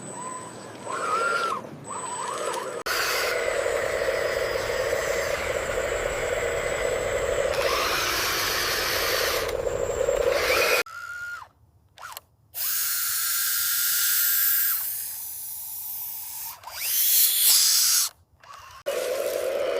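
Small electric motors of radio-controlled toy construction vehicles whirring, with brief rises and falls in pitch, in several short clips cut abruptly together.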